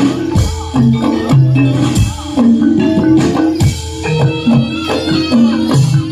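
Javanese jaranan gamelan music playing: repeating figures of pitched metal percussion over low drum strokes.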